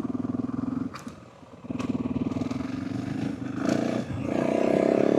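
Yamaha WR450F dirt bike's single-cylinder four-stroke engine running. It drops off briefly about a second in, picks back up, then rises in pitch and gets louder as the bike accelerates near the end.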